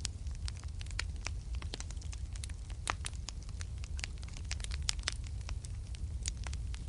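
Wood fire burning in a fireplace, crackling with many irregular sharp pops, several a second, over a steady low rumble.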